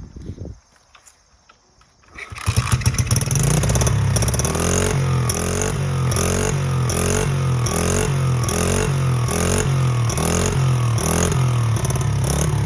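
Pit bike engine starting about two seconds in and then running steadily and loudly, with an even pulse about twice a second. It breathes through a muffler with two small holes drilled in it to make the exhaust louder.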